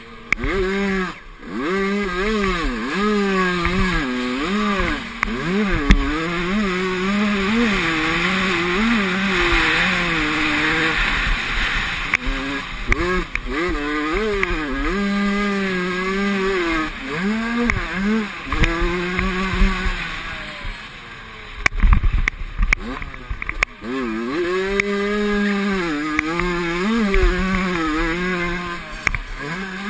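Motocross bikes racing, their engines revving up and dropping off again and again, several at once, with a brief lull about two-thirds of the way through.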